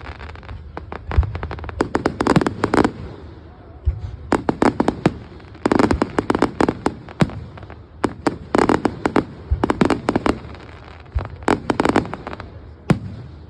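Fireworks display: deep booms of shells bursting, each followed by rapid runs of sharp crackling cracks, coming in clusters every second or two.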